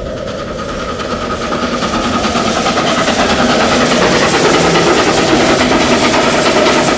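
Model train running along its track, the wheels clicking over the rails with a faint motor whine, growing steadily louder as it approaches.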